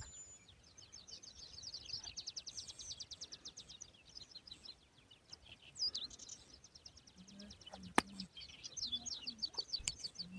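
Songbirds singing in fast, high trills of rapidly repeated notes, with a pause in the middle and a second trill near the end. A single sharp click about eight seconds in.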